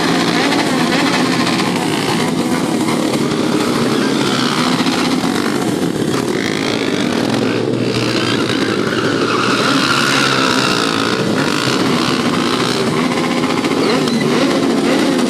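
Motorcycle engine running steadily, its pitch rising and falling a little.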